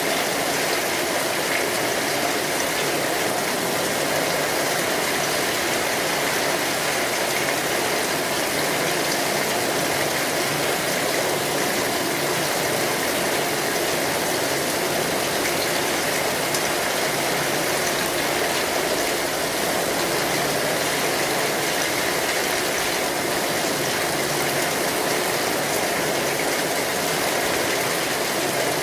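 Steady rain falling on an umbrella overhead, an even continuous hiss of drops with no let-up.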